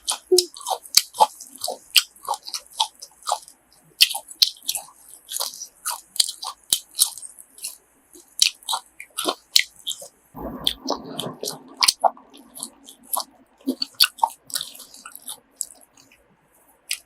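Close-up chewing and biting of grilled pork offal: many short wet clicks and crunchy crackles, busiest for a couple of seconds past the middle.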